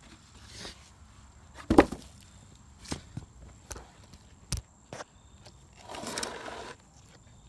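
A string of sharp knocks and clacks, about six of them spread irregularly, the loudest about two seconds in, followed by a second-long scraping rustle near the end.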